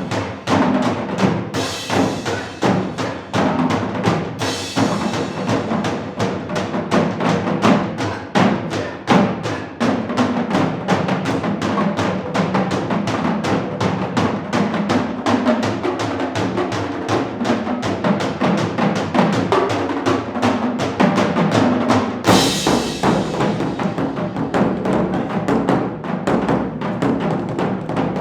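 Percussion ensemble playing a fast, dense drum rhythm, with ringing crashes about 1.5 s, 4 s and 22 s in.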